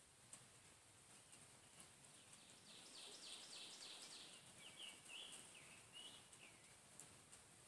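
Near silence, with a songbird singing once, faintly, starting about two and a half seconds in: a quick run of high repeated notes followed by a few lower slurred notes.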